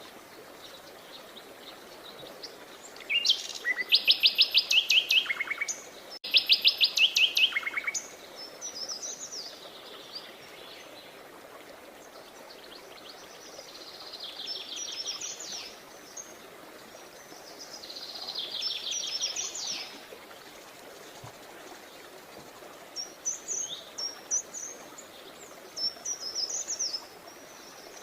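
Songbirds singing: two loud bouts of rapid repeated notes a few seconds in, then softer chirping phrases on and off through the rest, over a faint steady hiss.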